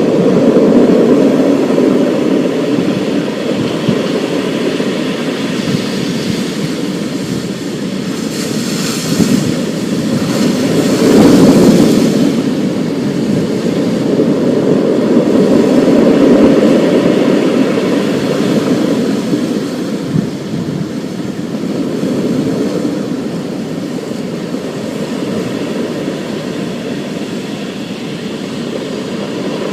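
Thunderstorm: a continuous low rumbling that swells and fades, with a louder, brighter surge about eleven seconds in.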